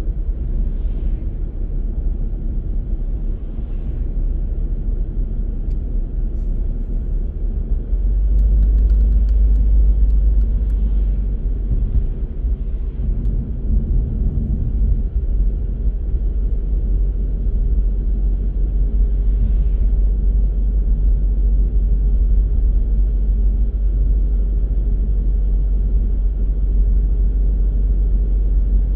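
Car on the move: a steady low rumble of engine and road noise, growing louder about eight seconds in.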